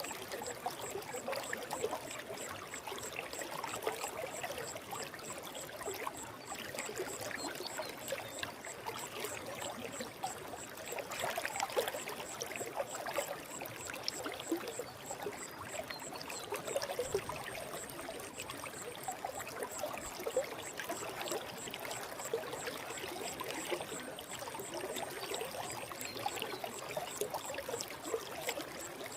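Forest stream flowing steadily: a continuous rush of water with fine, constant splashing.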